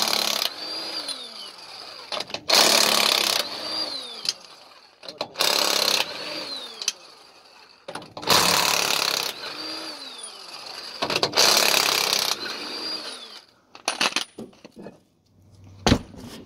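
A power tool run in repeated bursts of about a second, five times roughly three seconds apart, each followed by a short whine that rises and falls, while raising a heavy boat trailer on a jack. A few sharp clicks near the end.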